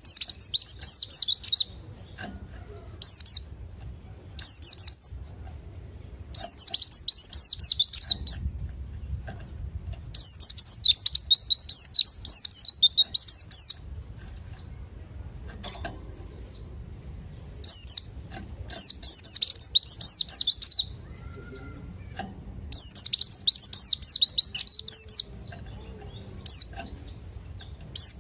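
White-eye (pleci) singing: high, rapid twittering phrases of one to four seconds, repeated again and again with short pauses between them, in the lively, nonstop 'gacor' style used as a training recording for songbirds.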